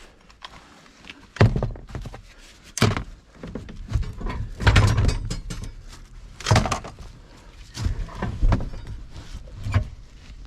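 A series of loud thunks and knocks, about six, with clattering handling noise between them, from work inside a pickup's cab: the bench seat being pushed forward and a bungee cord being hooked up to hold it there.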